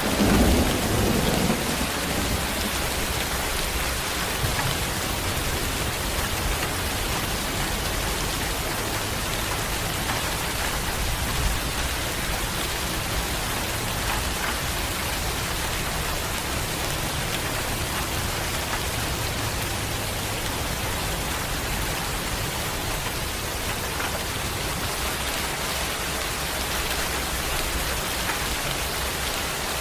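Steady rain falling hard and evenly, with a low rumble of thunder dying away in the first couple of seconds.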